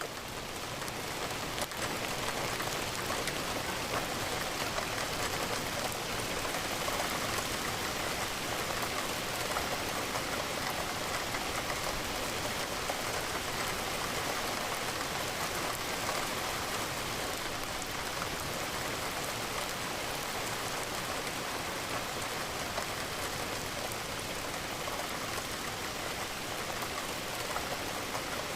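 Steady rain falling against a window, an even hiss of drops.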